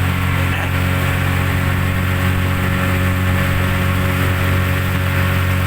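Speedboat engine running steadily at an even pitch, under a constant rushing noise.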